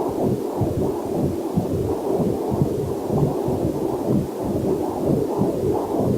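Heartbeat picked up by a fetal Doppler heart monitor: a low, rapid pulsing at a bit over two beats a second.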